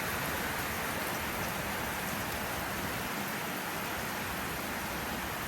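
Steady heavy rain hissing and pattering on surfaces.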